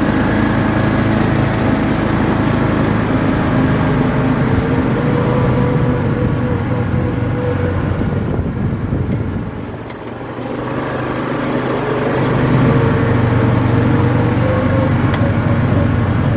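ATV engine running while riding, its pitch wandering with the throttle. It eases off for a moment about two-thirds of the way through, then picks back up.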